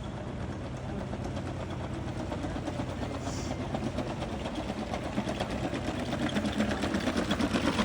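Deep Robotics quadruped robot dog's joint motors running, with a low hum and rapid mechanical ticking that grows louder toward the end.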